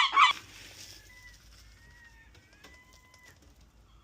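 A gull calling in a fast run of loud repeated notes, about five a second, which stops a moment in; then quiet, with a few faint thin whistling notes.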